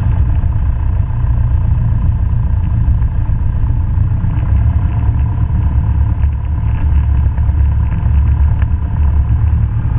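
Cessna 172's piston engine and propeller running, heard inside the cabin as a steady, loud, low drone.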